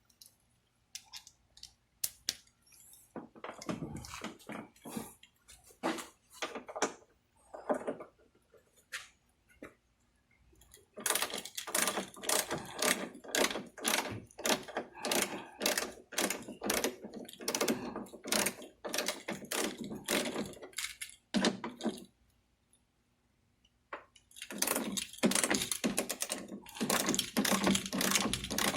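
Clicking, tapping and rattling of hand tools and small metal and plastic parts as a car door's lock mechanism is taken apart: scattered clicks at first, then long runs of rapid clicks broken by a short quiet spell.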